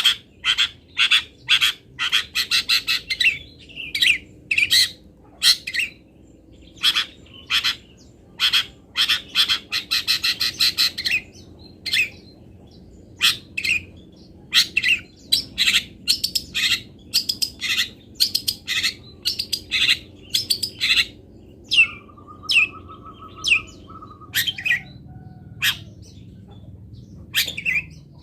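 Long-tailed shrike (cendet) singing: a steady string of short, sharp chirps, broken by rapid trills about 2 and 9 seconds in, and a lower buzzy held note a little past the 22-second mark.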